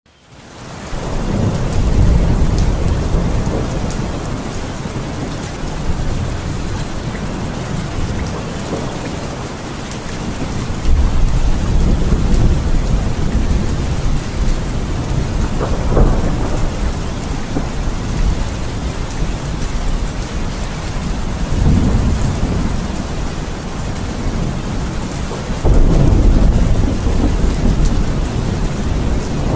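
Steady rain falling during a thunderstorm, with rolls of thunder rumbling in and out several times and a sharper thunder crack about halfway through.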